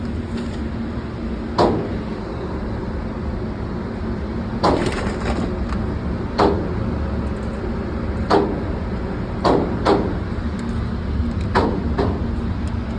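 Handgun shots echoing in an indoor shooting range: about nine sharp reports, irregularly spaced and some in quick pairs, over a steady low background noise.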